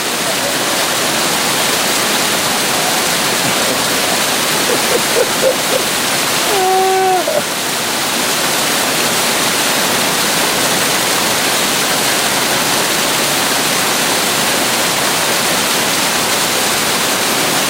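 Victoria Falls on Dominica's White River, a loud, steady rush of falling water. A person's voice calls out briefly about seven seconds in.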